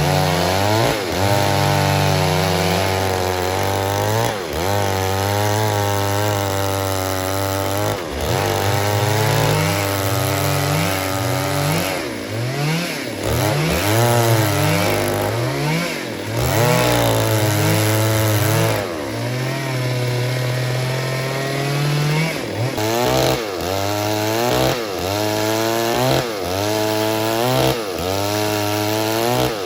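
Stihl MS 382 two-stroke chainsaw cutting wood, its engine speed repeatedly dropping as the chain bites and climbing again as it frees, with a few quick revs between cuts.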